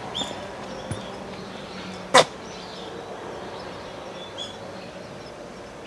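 Birds giving short, falling chirps now and then, with a single sharp click about two seconds in, the loudest sound.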